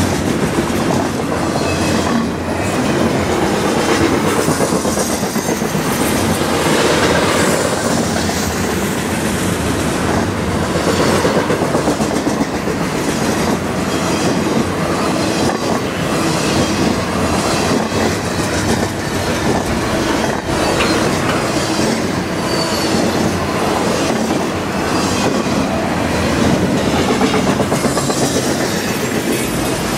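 Double-stack intermodal container well cars of a freight train rolling past, their steel wheels clicking over rail joints in a continuous stream over a steady rumble.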